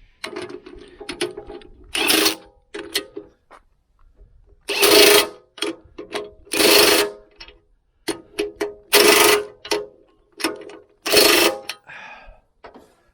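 Power impact gun driving nuts down onto bolts in short bursts of about half a second, five main bursts with sharp clicks and taps of handling between them.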